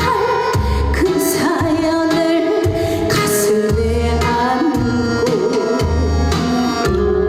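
Trot song: a woman singing with a wavering, held voice over a backing track with a steady bass drum beat about once a second.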